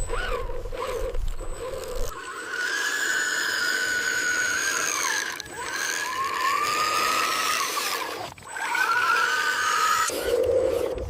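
A radio-controlled construction machine's motors or hydraulics whining in a high pitch that bends up and down, breaking off briefly twice. A low rumble comes before the whine and comes back near the end.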